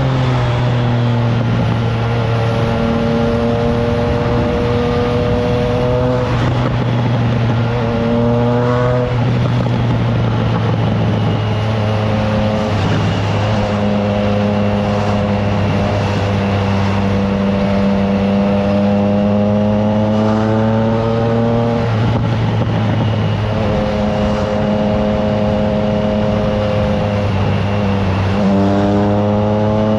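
Triumph Trident 660's inline three-cylinder engine through a FireTong aftermarket exhaust, heard from the bike while riding. The engine note holds steady for long stretches at cruise, then climbs and drops a few times as the rider accelerates and changes gear, over a steady rush of wind.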